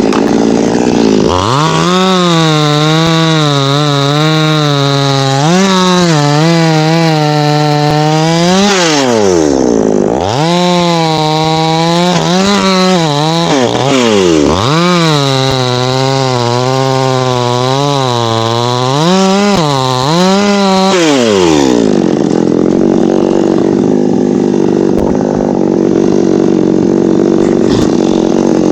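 Chainsaw running hard while cutting teak wood. Its engine pitch rises and falls with the throttle and drops away sharply twice near the middle. From about two-thirds of the way in it settles into a steadier, rougher sound.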